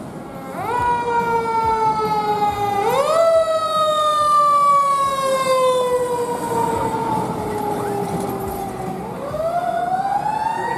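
Fire truck siren winding up quickly and then sliding slowly down in pitch, three times: rises about half a second in and about 3 s in, a long slow fall, then a final rise near the end.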